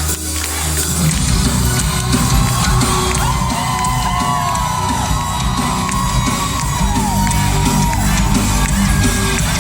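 Live rock music: a heavy drum and bass rhythm kicks in about a second in, with audience whoops and shouts over it.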